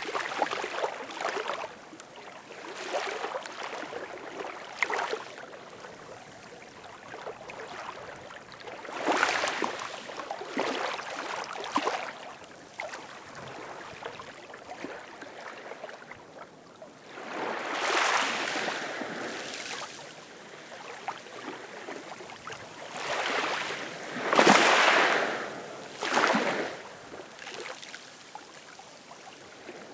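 Ocean waves washing in, coming as irregular swells of surf noise every few seconds, the biggest about two-thirds of the way through.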